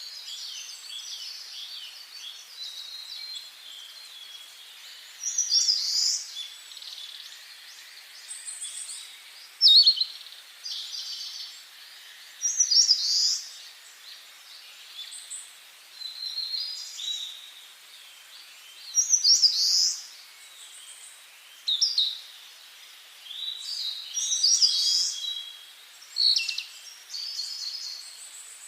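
Forest songbirds singing: short, high-pitched song phrases and chirps come every few seconds, over a faint steady hiss.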